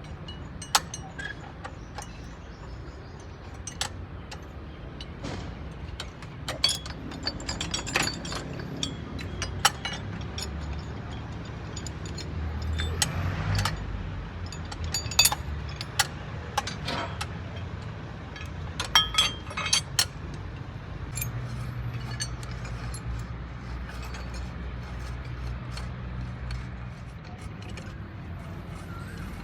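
Metal tools and parts clinking and knocking at irregular intervals, loudest in a few sharp strikes, over a steady low mechanical hum.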